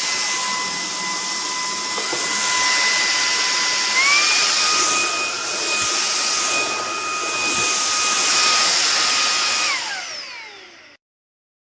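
JELLYPIG cordless stick vacuum cleaner running with a high motor whine and airflow hiss. About four seconds in, its pitch steps up to a higher speed. Near the end the motor is switched off and winds down with a falling whine.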